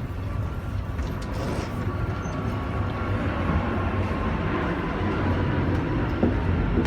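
Steady low rumble of a moving vehicle heard from inside it, with a few faint steady whining tones, growing slightly louder.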